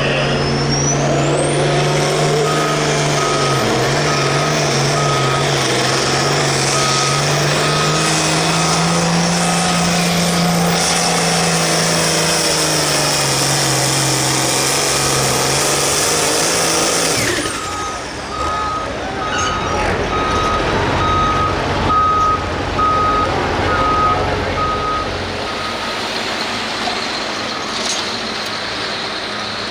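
Turbocharged farm tractor diesel engine under full throttle on a pull. A high turbo whistle rises over the first two seconds, the engine note holds, then it cuts back suddenly a little past halfway. A steady repeating beep sounds over the first third and again after the throttle drops.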